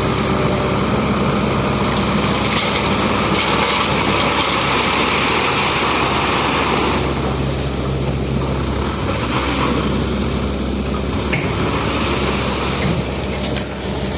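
Excavator's diesel engine running steadily, with a broad hiss over it that eases off about seven seconds in.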